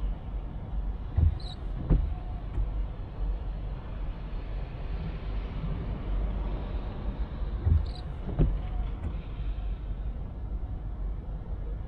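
Steady low rumble of a car driving on wet roads, with two double thumps, one about a second in and one near eight seconds.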